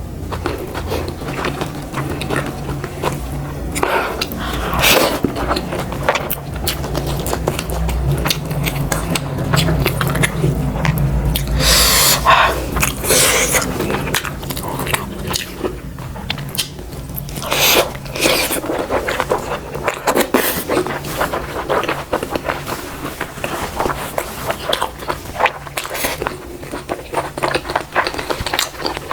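Close-miked chewing and biting on pork and buffalo momo, with scraping sounds and many short, irregular clicks.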